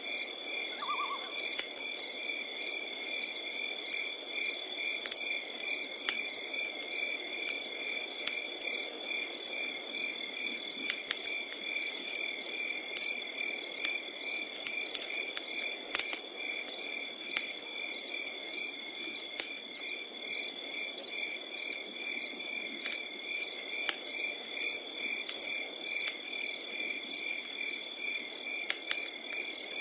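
Night insects, crickets, singing steadily: a constant high trill with evenly pulsed chirps a few times a second, over a wood fire crackling with scattered sharp pops.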